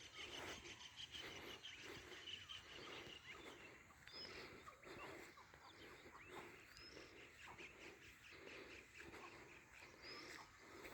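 Faint birds and other animals calling outdoors: short high chirps over a low call repeated about once or twice a second, with a steady high buzz in the first few seconds.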